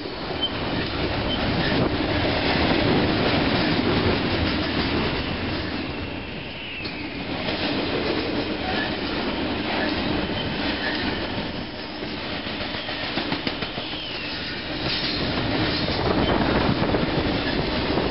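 Double-stack container freight train passing close by at speed: a steady rumble and clatter of steel wheels on the rails with rhythmic clicking over the joints, swelling and easing as the cars go by, and a few brief high wheel squeals.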